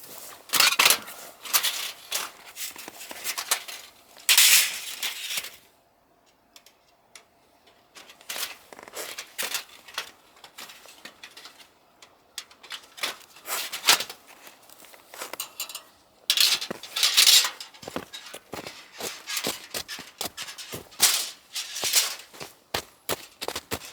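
Irregular rustling and sharp clicks and knocks of gear being handled, with louder rustling bursts about half a second, four seconds and seventeen seconds in.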